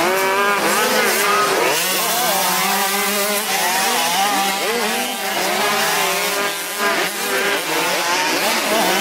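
Several motocross bikes' engines revving together, their pitches overlapping and rising and falling over and over as they accelerate and ease off.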